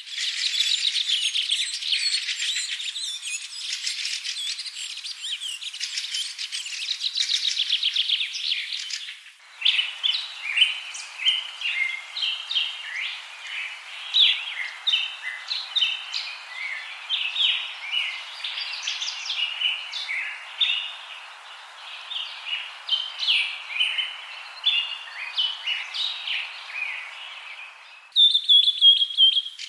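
Small songbirds chirping and singing, in spliced recordings: first a dense chorus of fast trills, then after about nine seconds many separate short chirps over a steady background hiss, and near the end a high, fast trill.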